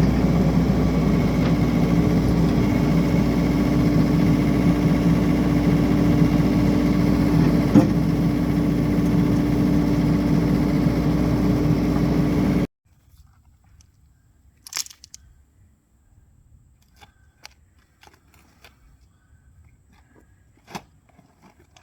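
Excavator engine running steadily under load with a held low drone, stopping abruptly about 13 seconds in. After that there are only a few faint clicks and knocks.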